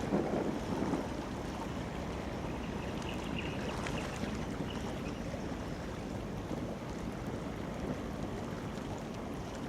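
Steady low rumble and water wash of a large container ship passing on a river, with wind buffeting the microphone, strongest in the first second.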